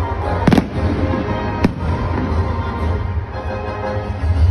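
Fireworks exploding overhead: two sharp bangs about a second apart, over loud music with a steady bass played for the show.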